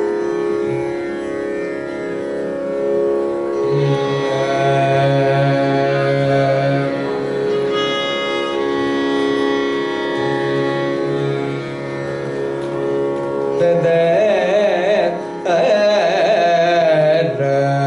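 Carnatic music in raga Begada: a steady drone under a slow melodic line that opens up into wavering, ornamented notes with quick pitch bends in the last few seconds.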